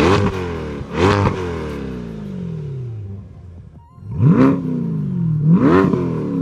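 Chevrolet C8 Corvette's 6.2-litre LT2 V8 free-revving through its exhaust: four quick blips of the throttle, the pitch jumping up and then falling away, two close together at the start and two more near the end.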